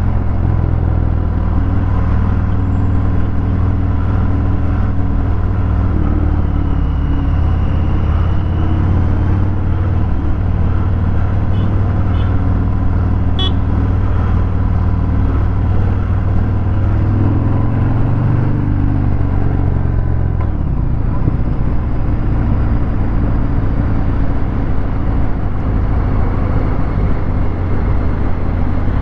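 Harley-Davidson Fat Bob 114's Milwaukee-Eight V-twin running through a Vance & Hines Hi-Output 2-into-1 exhaust, a steady low rumble while riding in traffic. The pitch dips and recovers around twenty seconds in, as the rider eases off and back on the throttle.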